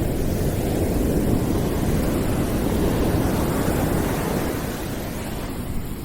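Steady, deep rushing noise played as a white-noise sleep and study track, swelling gently and easing off a little near the end.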